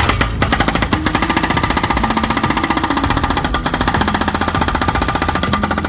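Hydraulic breaker (rock hammer) on a 1/16-scale WL-Model RC excavator hammering into a rock: a loud, rapid, steady rattle of chisel blows that starts abruptly and eases off near the end.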